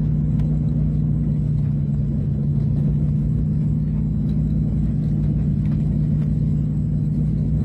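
Steady drone of a Convair CV-340's piston engines and propellers, heard from inside the cabin, with a constant low hum and rumble throughout.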